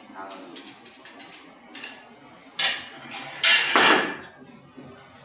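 Clinking and clattering of hard metal objects: a series of knocks, the loudest cluster about three and a half to four seconds in.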